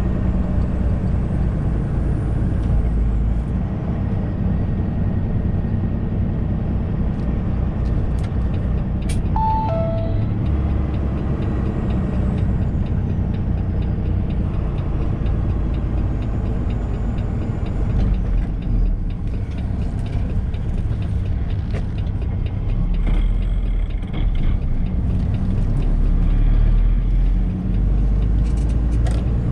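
Truck engine running with road noise, heard from inside the cab while driving. About a third of the way in, a short falling two-note chime sounds.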